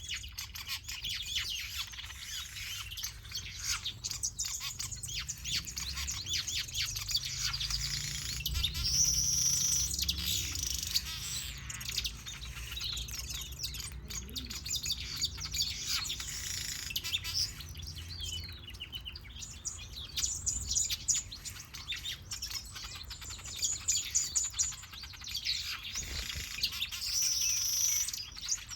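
A mixed flock of aviary finches and softbills chirping and calling at once: a dense, overlapping chatter of short high calls and trills.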